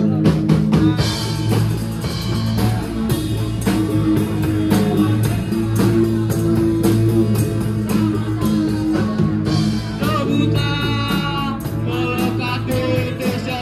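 Band playing a rock song with electric guitar and a drum kit keeping a steady beat; a singing voice comes in about ten seconds in.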